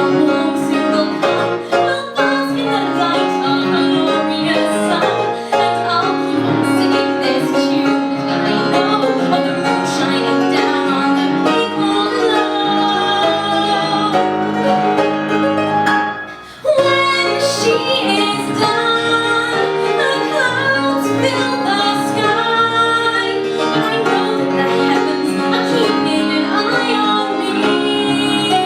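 A woman singing a musical-theatre song with instrumental accompaniment. The music drops out for a moment a little past halfway, then resumes.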